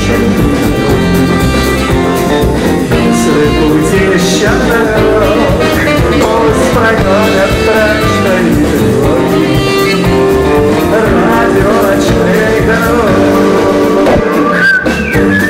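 Live rock-and-roll band playing an upbeat number with guitar, bass and drums, with a melody line over them.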